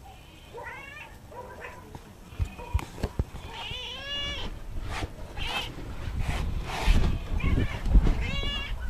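Domestic cat meowing repeatedly, a series of drawn-out meows that bend in pitch, with a few sharp knocks about two and a half to three seconds in and low rumbling noise near the end.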